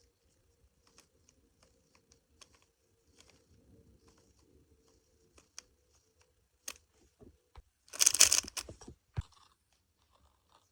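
Plastic speedcube being turned by hand: scattered light clicks of its layers, with a louder flurry of rattling turns for about half a second near the end.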